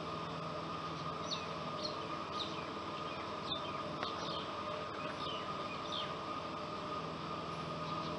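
A small bird chirping: short, high, downward-sliding calls, starting about a second in and repeating roughly once or twice a second, over a steady hum and hiss.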